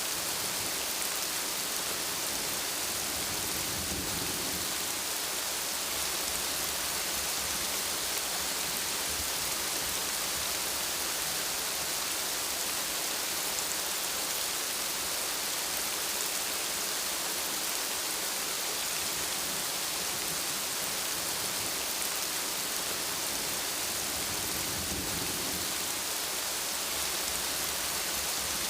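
Steady, dense rain hissing. Distant thunder rumbles softly and low about four seconds in and again near the end.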